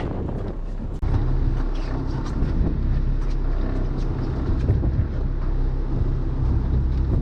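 Boat engine running steadily with a low hum, over wind and water noise; the sound dips briefly about a second in, then carries on.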